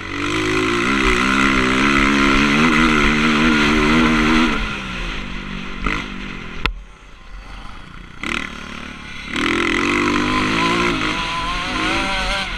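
Motocross dirt bike engine on the throttle, its pitch wavering up and down, then backing off for a few seconds around the middle, with one sharp click, before opening up again near the end.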